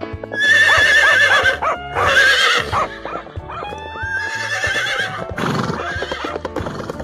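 A horse whinnying, two long quavering neighs in the first three seconds and a weaker one later, over background music with a steady beat.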